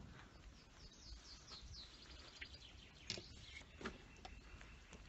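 Faint songbird singing: a quick run of high descending chirps about a second in, then thin held whistles. A couple of soft clicks come later.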